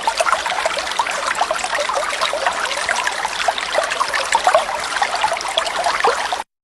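Waterfall water splashing and trickling, a steady noisy wash full of small quick splashes. It cuts off abruptly just before the end.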